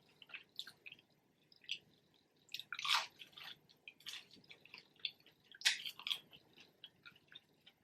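A person chewing French fries close to the microphone: soft, wet mouth clicks and smacks, with louder bites about three seconds in and again near six seconds.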